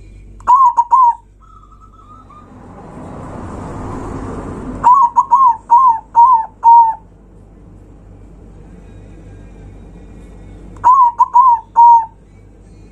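Zebra dove (perkutut) cooing loudly in three phrases of short, clear whistled notes: three notes at the start, a run of six about five seconds in, and four near the end. Between the first two phrases a hiss of noise swells up and cuts off suddenly.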